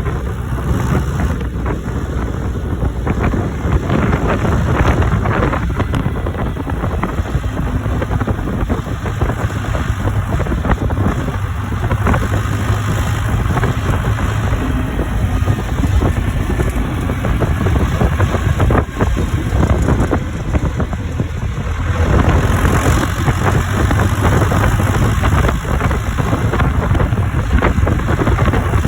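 John Deere tractor's diesel engine running steadily under way, with frequent knocks and rattles over the top of it.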